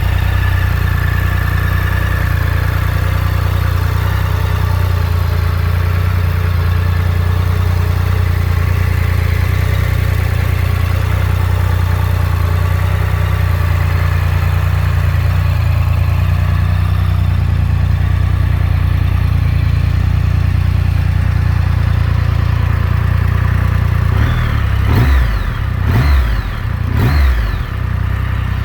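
A Triumph Rocket 3 GT's large three-cylinder engine idling steadily, then revved with about three quick throttle blips near the end.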